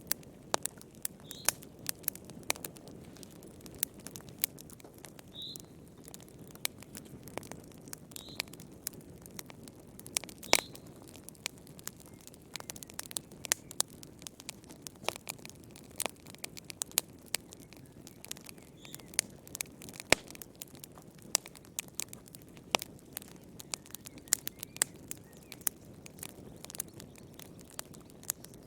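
Wood fire burning in a fireplace: frequent irregular sharp crackles and pops over a steady low rush of the flames, with a few brief faint high-pitched squeaks.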